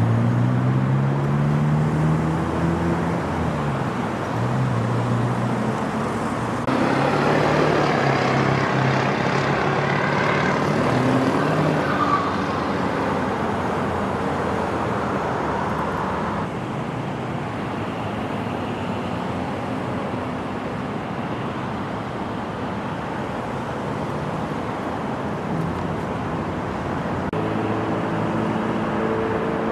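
Road traffic: vehicle engines running and passing, with engine pitch shifting as they speed up and slow down. A louder stretch of engine and road noise runs through the middle and stops abruptly.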